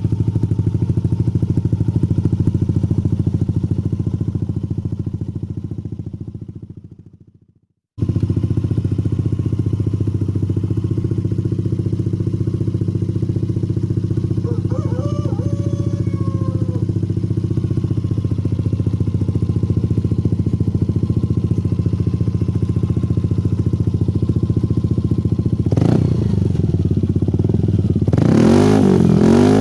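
Yamaha Lexi 125 scooter's single-cylinder engine idling steadily through an aftermarket Akrapovic exhaust. The sound fades out about six seconds in and cuts back in two seconds later. Near the end the throttle is blipped, with the pitch rising.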